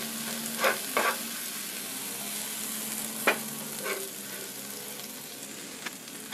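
Crickets frying in margarine in a flat pan, a steady sizzle, while a wooden spatula stirs them, knocking and scraping against the pan about four times.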